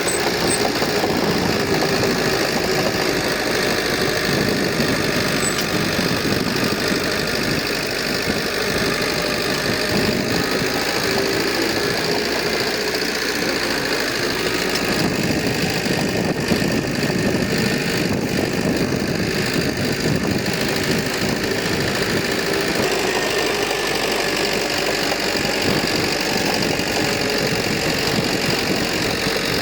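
Diesel engine of heavy earthmoving equipment running steadily, with no clear revving or stops.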